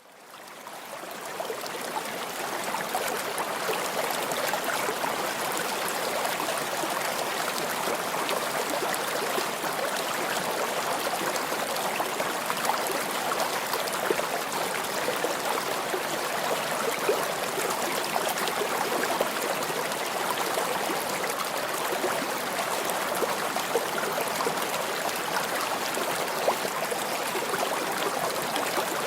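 Forest stream flowing and cascading over rocks: a steady rushing, splashing water noise that fades in over the first two seconds.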